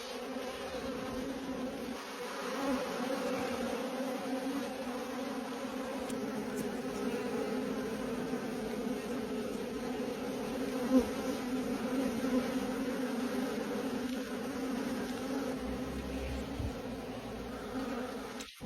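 Honeybees buzzing in a steady, continuous hum, with one short click about eleven seconds in.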